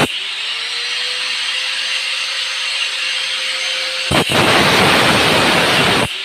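Electric power tool motor spinning up, its whine rising in pitch and then holding steady, then cutting into hard material with a loud, rough grinding noise for about two seconds before the motor whine starts to rise again.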